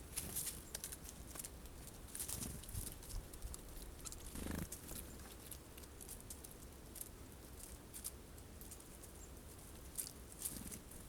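Jays pecking and hammering sunflower seeds at a feeder: a scattered run of small sharp taps and clicks, with one duller, fuller sound about four and a half seconds in.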